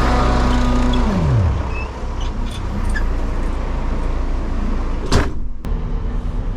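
Scania vacuum tanker's engine and vacuum pump running at high revs. About a second in they wind down in a falling whine to a steady low idle, as pumping stops with the tank full. A single sharp click or knock sounds about five seconds in.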